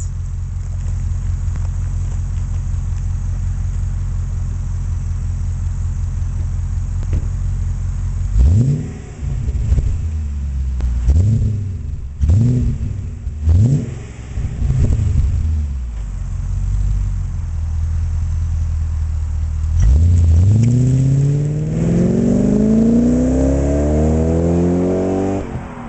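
BMW 840Ci V8 exhaust, through a stainless steel exhaust system, idling steadily, then blipped in a quick series of short revs. Later it is revved up and held high for several seconds before dropping back sharply near the end.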